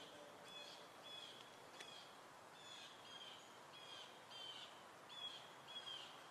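A small bird chirping over and over, short high calls about twice a second, faint against a low hiss, with one sharp click about two seconds in.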